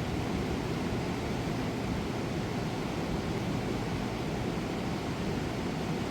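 Fast mountain river rushing over large rocks: a steady, unbroken roar of water.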